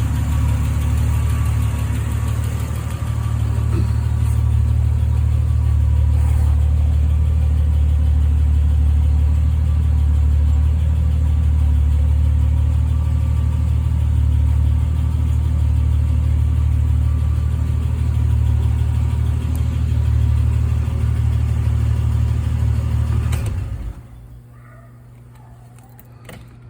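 Triumph TR6's straight-six engine idling steadily, then switched off near the end, its note stopping abruptly.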